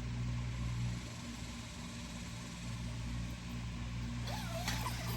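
A steady low engine-like hum, as of an idling vehicle, with a brief clatter and short gliding squeak near the end.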